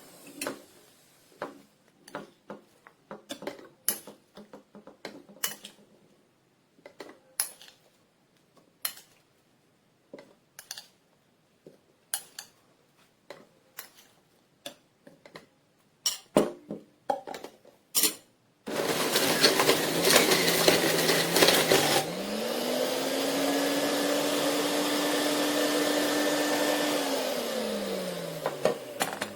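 Hard plastic parts of a JUILIST 400W juice extractor clicking and knocking as it is handled. Then its motor runs loud and rough for about three seconds, as produce is fed through it. It then speeds up to a steady whine for about five seconds and winds down near the end.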